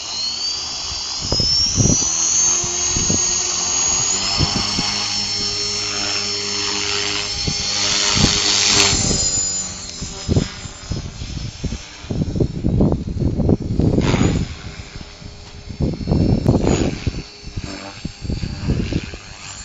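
Electric RC helicopter (Align T-Rex 450 Pro) spooling up: the high whine of its motor and rotor gearing rises steeply in pitch over the first few seconds, then holds steady. In the second half the whine fades under irregular low knocks and rumbles.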